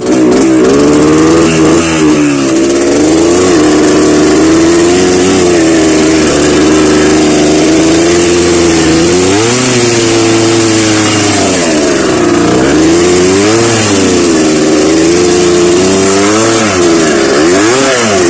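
Engine of an off-road trail vehicle running hard and loud. It holds a fairly steady pitch at first, then revs up and drops back several times in the second half.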